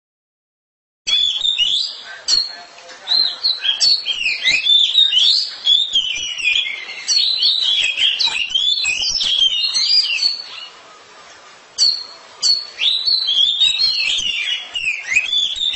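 Oriental magpie-robin (kacer) singing loudly, starting about a second in: a fast, varied run of high whistled and chattering phrases, broken by a pause of about a second around two-thirds of the way through.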